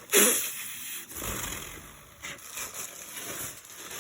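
Plastic bag rustling in irregular bursts as a power sander is handled and unwrapped, with a sharp noisy start just after the beginning.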